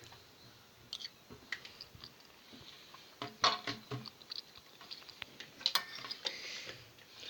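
Scattered small clicks and light rattles of a device and its charging cable being handled and plugged in, busiest about three and a half and six seconds in.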